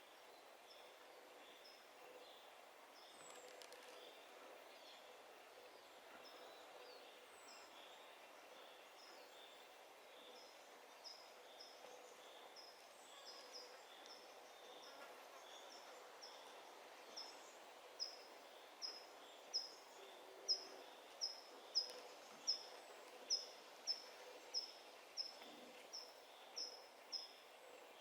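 Forest birdsong: one bird repeats a short, high call about once a second, faint at first and much louder over the second half. Fainter calls from other birds go on behind it.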